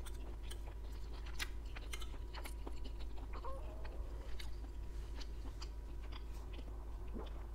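Close-miked chewing of Chinese beef and broccoli, with many small wet mouth clicks and occasional crunches.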